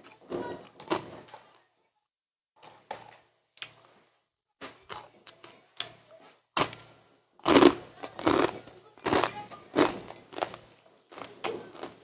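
Close-up eating and table sounds: short, irregular bursts of chewing and small knocks, sparse at first and coming thicker in the second half.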